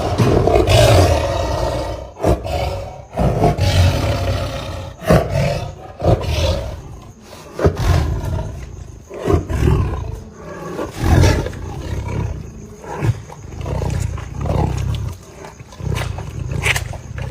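A big cat roaring and grunting over and over, the loudest call at the start and the rest following about once a second.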